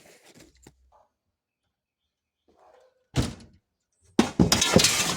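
A thud about three seconds in, then a second later a loud crash of glass panes falling and shattering. Freshly caulked panes dropping out of their opening before the acrylic latex caulk had set.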